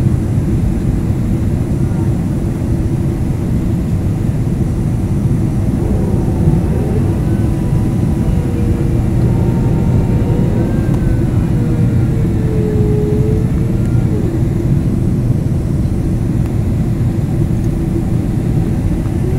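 Cabin noise inside a Boeing 767-300ER airliner, heard from a seat over the wing: a steady, loud, deep rush of jet engines and airflow.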